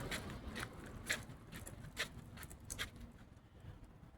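A run of irregular sharp clicks and taps, about a dozen over a few seconds, growing fainter toward the end.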